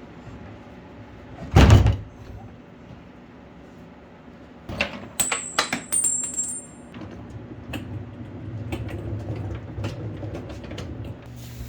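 Objects being handled and set down during cleaning: one heavy thump, then a quick run of clicks and knocks with a short metallic ring, then softer clatter and rustling over a steady low hum.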